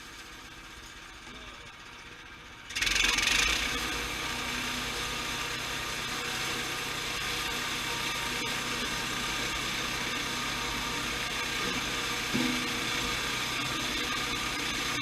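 Sawmill starts up suddenly about three seconds in, with a brief hissing surge, then runs steadily.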